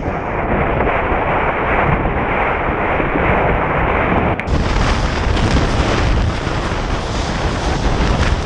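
Storm wind buffeting the microphone: a loud, continuous rushing noise heavy in the low end, growing harsher and brighter about four and a half seconds in.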